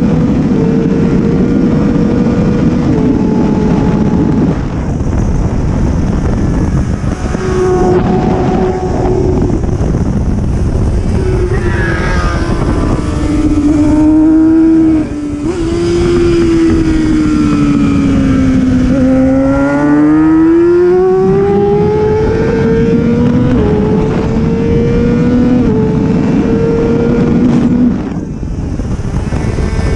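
Superbike racing motorcycle engine at high revs, its pitch stepping through quick gear changes. About halfway through the revs sink while slowing for a corner, then climb steadily again under hard acceleration, with heavy wind rush over it.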